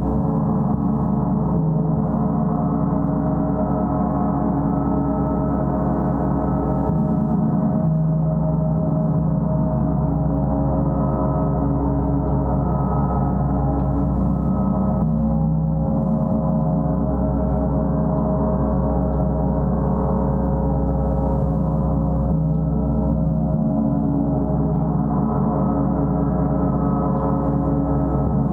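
Gong played continuously, a dense sustained wash of many overlapping tones with a deep low hum, swelling and shifting gently without distinct strikes.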